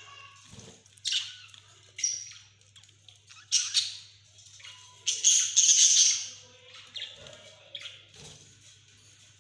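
Pet budgerigars squawking and chirping in short, harsh calls, with a longer, louder burst of squawking about five seconds in.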